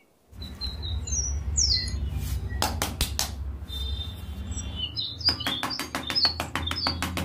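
Small birds chirping in short, high calls over a low steady rumble. About five seconds in, a fast, even run of clicks begins, roughly five a second.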